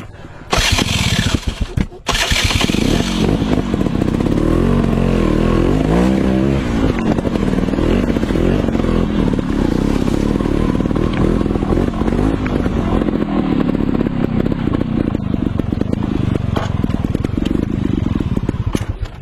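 Off-road motorcycle engine running under way, its pitch rising and falling with the throttle. A loud rush of noise comes in with it over the first couple of seconds.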